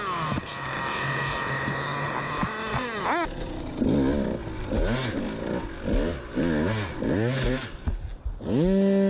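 KTM 200 EXC two-stroke single-cylinder dirt bike engine, held at a steady note for about three seconds, then revved in a rapid series of short throttle blips, ending in a hard rev near the end.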